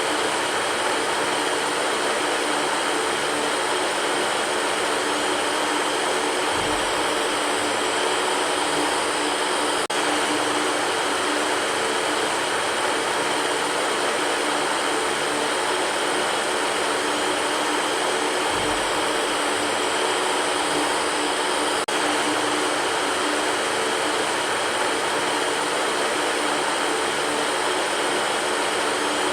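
Electric fan running with a steady whooshing rush and a faint hum, unchanging throughout, with a faint low bump about every twelve seconds.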